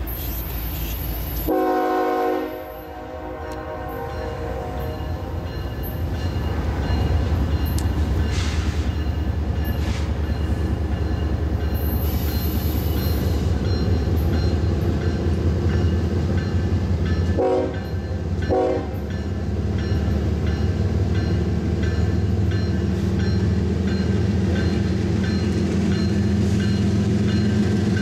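CSX freight train's diesel locomotives approaching, their low rumble growing louder. The locomotive horn sounds one blast about a second and a half in and two short blasts about 17 seconds in.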